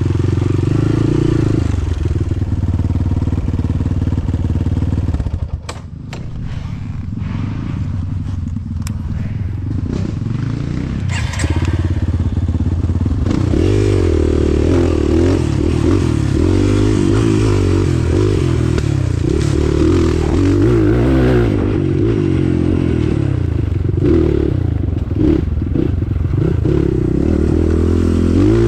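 Off-road vehicle engine running under load, dropping off briefly about six seconds in and building back up, with rattles and knocks over it.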